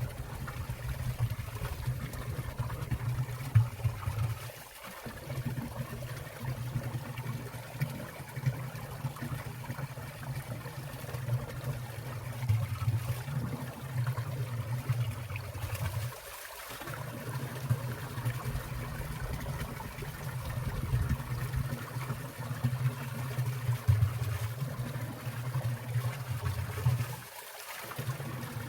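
Water of a winter valley stream trickling and splashing as it falls among ice and icicles, steady with a few louder splashes. The sound briefly drops away three times.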